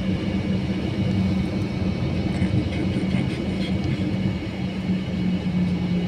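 Airbus A321 cabin noise while taxiing: a steady low engine hum and rumble with a constant drone.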